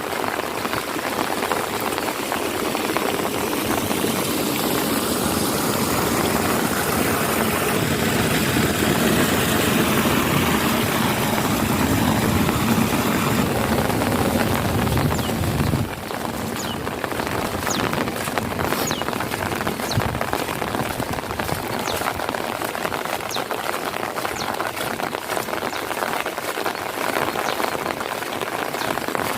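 Heavy rain pouring down steadily, with close drips ticking. A low steady rumble lies under the rain for about the first half and cuts off suddenly about halfway through.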